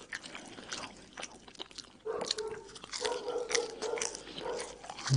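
Close-miked chewing of hawawshi, Egyptian spiced-meat-stuffed baked bread: irregular wet smacks and clicks of the mouth, sparser at first and busier from about two seconds in.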